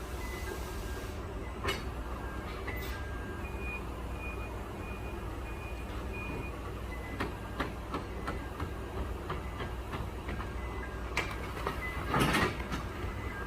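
Forklift engine running steadily, its reversing alarm beeping about twice a second for a few seconds. Scattered knocks and a louder rattle near the end.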